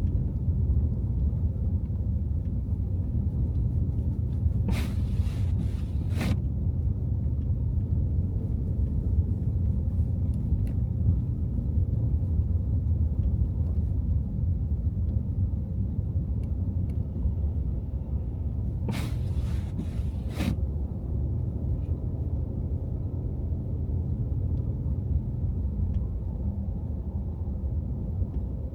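Car driving on snowy city streets: steady low rumble of road and engine noise. Two short clusters of sharp clicks break in, about five seconds in and again near twenty seconds.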